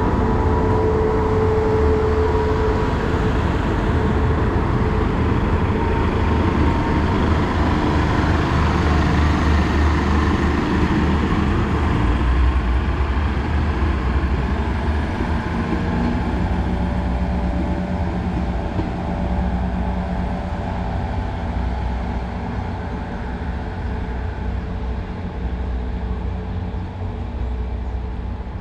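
Diesel train running through the station: a loud, steady low rumble of engine and wheels that eases gradually over the second half.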